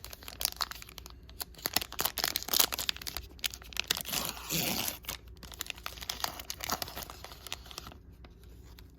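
Plastic trading-card pack wrapper being torn open and crinkled by hand: a run of crackling rustles that dies down about eight seconds in.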